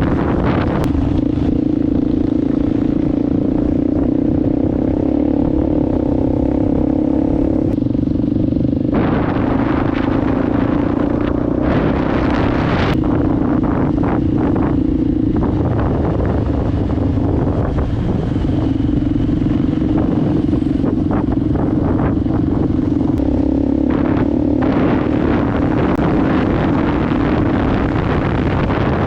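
Enduro motorbike engine running at a steady pitch while riding, with wind buffeting the microphone.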